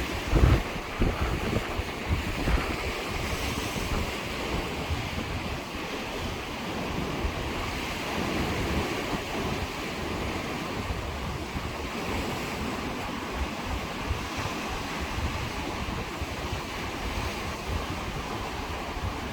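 Sea waves washing and breaking on the shore, a steady rush of surf, with wind buffeting the microphone in low thumps, hardest about half a second in.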